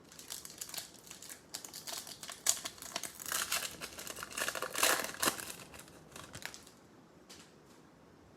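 Crinkling and tearing of a trading-card pack's wrapper as it is ripped open and crumpled, a dense crackly rustle that dies away about six and a half seconds in, followed by a few faint ticks.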